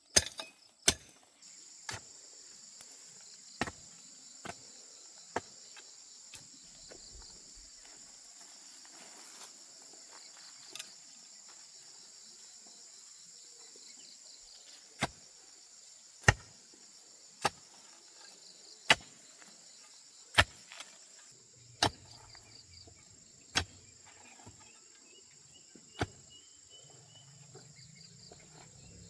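Irregular sharp knocks of a hand tool striking wood, about fifteen strokes spaced one to a few seconds apart with a long pause in the middle, over a steady high-pitched chirring of crickets.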